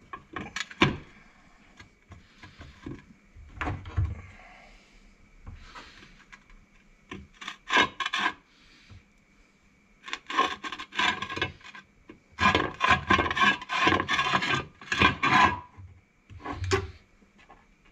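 Hand work on a gearbox cover being sealed and fitted: scattered sharp knocks and clicks, then two longer bursts of fast, repeated rasping and rubbing in the second half.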